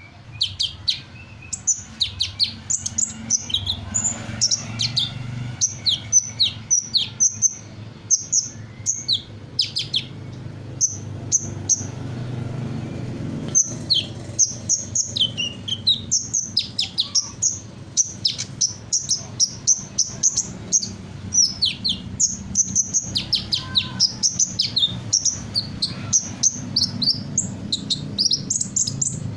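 A sunbird singing a rapid, unbroken stream of high, short chirps and trills, running through a medley of other birds' calls.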